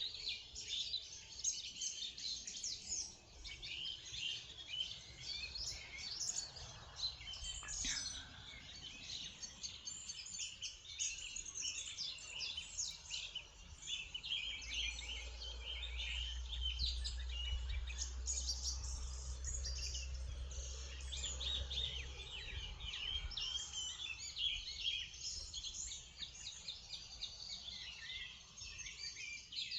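Morning chorus of many small songbirds chirping and trilling over one another, dense and continuous. A low steady rumble sits underneath for several seconds around the middle.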